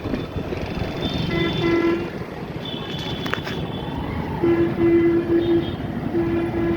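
Vehicle horns beeping in short repeated toots, two about a second in, three in the middle and two more near the end, over steady traffic and road noise.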